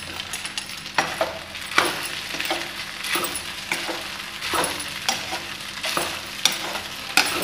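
Fried rice sizzling in a steel wok on a gas stove as it is stirred, with the spatula scraping and clinking against the pan about once a second.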